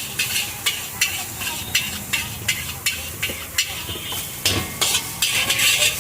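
Fried rice being stir-fried in a wok: a metal spatula strikes and scrapes the pan about three times a second over a steady sizzle.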